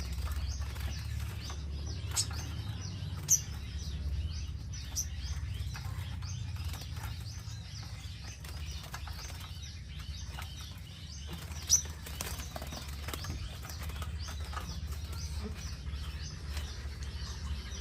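Small birds chirping, with short high chirps repeating several times a second, a few sharper and louder ones standing out, over a low steady rumble.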